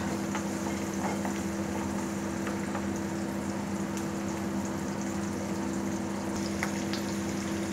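Garlic cloves sizzling as they fry in hot oil on a high flame, with a steady low hum underneath and a few faint clicks of a spoon against the pan.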